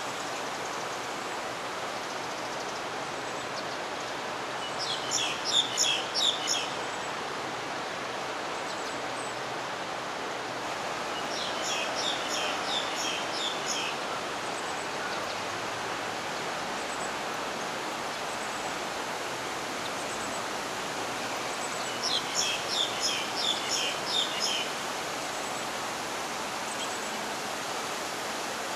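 A songbird sings three short phrases of quick, high chirping notes, about five, twelve and twenty-two seconds in, over a steady hiss of outdoor background noise.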